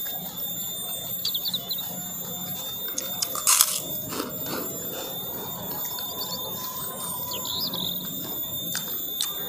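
Close-miked eating sounds: chewing and small mouth clicks, with one louder short crunch about three and a half seconds in. Faint high chirps come twice in the background.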